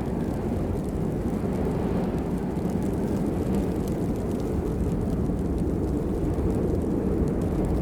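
Steady rain: a dense, even low rumble of falling water with a faint patter of individual drops above it.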